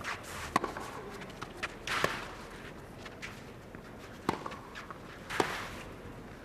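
Tennis rally on a clay court: several sharp racket strikes on the ball, irregularly spaced a second or two apart, with players' shoes scuffing and sliding on the clay.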